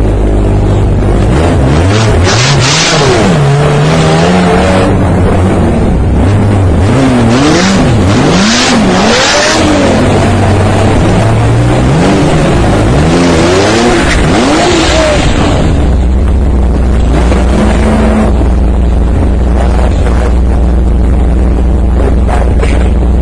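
Car engine accelerating and revving, its pitch climbing and falling again and again as it runs through the revs, then settling into a steady low drone from about 16 seconds in.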